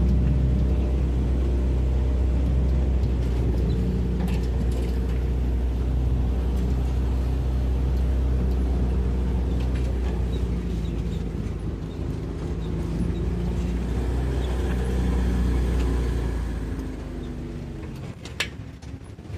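An engine running steadily with a low rumble, which fades away over the last few seconds; a sharp click sounds shortly before the end.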